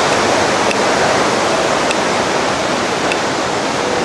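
Steady rush of Bridalveil Fall's water pouring down, heard up close in its spray.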